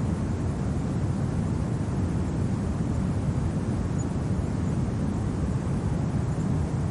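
Steady, low winter wind rumble, even throughout, with no separate events.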